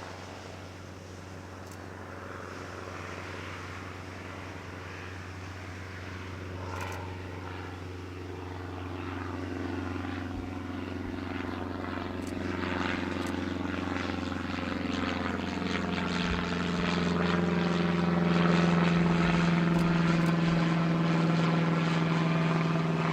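An aircraft's engines running, a steady low hum with several steady pitched tones, growing steadily louder throughout.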